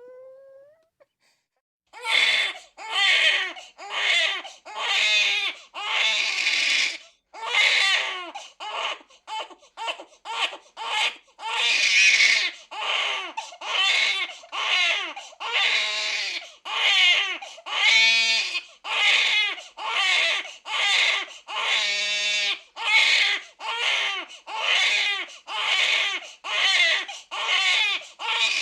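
Baby crying hard in repeated wails, about one a second, starting after a brief silence; a run of quicker, shorter cries comes about a third of the way in.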